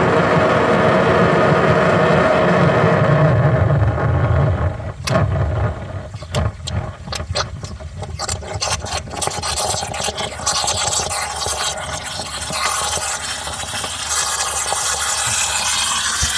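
Work to clear a clogged refrigerator defrost drain: a steady machine-like whir for about the first four seconds stops abruptly, followed by a run of sharp clicks and scraping, then a steady hiss.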